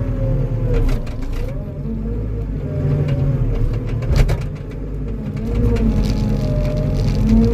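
Tracked skid steer's diesel engine running hard under load as it pushes against a tree, with a whine that rises and falls in pitch as the load changes. There is a single sharp knock about four seconds in.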